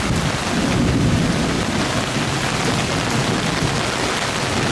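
Heavy thunderstorm downpour, rain pouring steadily and loud with a deep rumble underneath.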